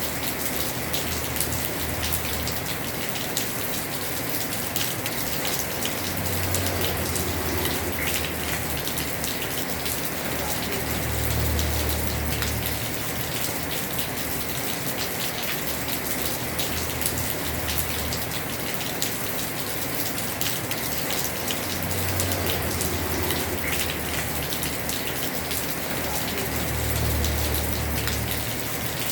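Heavy rain falling steadily on a house roof, a dense hiss full of fine drop ticks. A low rumble swells and fades four times.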